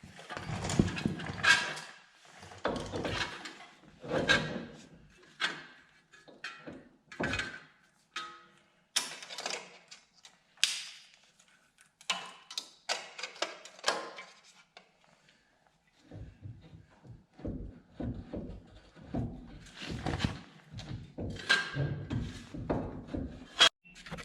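Irregular metal clanks, knocks and scrapes of a front hub assembly and its dust shield being handled and fitted onto a truck's steering knuckle, one strike near the middle ringing briefly.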